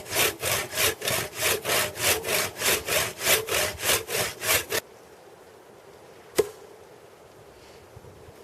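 Hand saw with a 50 cm blade cutting through a felled tree trunk in even back-and-forth strokes, about three a second, the saw bucking the trunk into logs. The sawing stops abruptly about five seconds in, followed by a faint steady background and one sharp click a little later.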